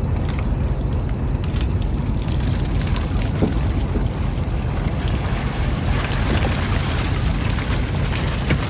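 Fishing trawler's engine running steadily with a low rumble, with a few faint knocks over it.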